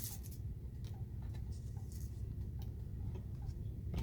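Light clicks and ticks of small plastic shaker-card pieces being handled and gathered up after a spill, many small taps at an uneven pace over a low room hum.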